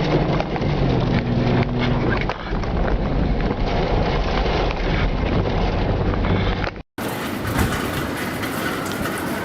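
Loud, steady rushing and rumbling of storm wind, with a low engine-like hum in the first couple of seconds. About seven seconds in it cuts abruptly to another recording of steady rushing noise with a faint high whine.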